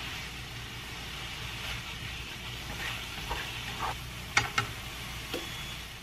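Noodles, mushrooms and onions sizzling steadily in a nonstick frying pan, with a few sharp clicks and scrapes of wooden chopsticks against the pan as they toss the noodles between about three and five seconds in.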